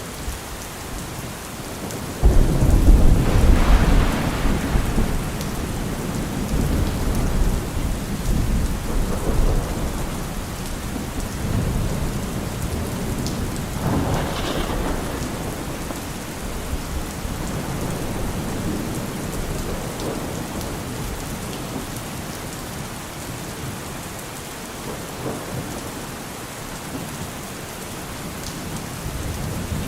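Steady rain falling, with thunder: a loud clap about two seconds in that rolls on into a long low rumble, and a second, sharper crack near the middle.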